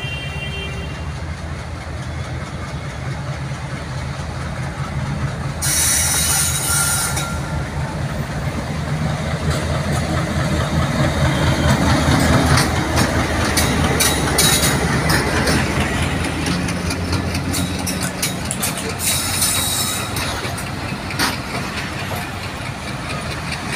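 Diesel-electric locomotive of Bangladesh Railway passing with a train of passenger coaches: a steady low engine drone that grows loudest as the locomotive goes by about halfway through, then the clatter of the coaches' wheels over the rail joints. Two short bursts of hiss, at about a quarter of the way in and again near the end.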